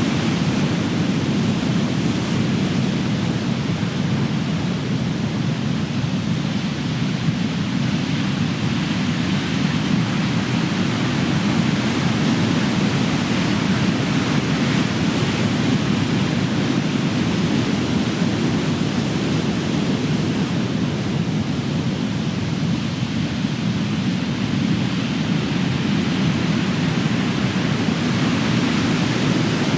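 Ocean waves crashing and rushing on the shore, a steady deep roar that swells and eases every several seconds as waves break.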